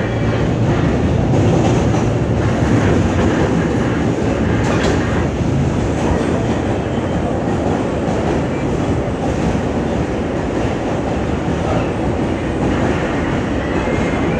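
Inside an R160 subway car running along the track: a steady loud rumble of wheels on rail, with a sharp click about five seconds in.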